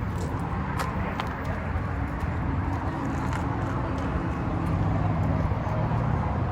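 A car engine running with a steady low rumble, and a couple of faint clicks about a second in.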